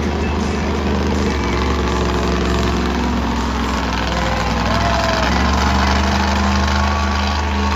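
Monster truck engine running, a loud steady low drone.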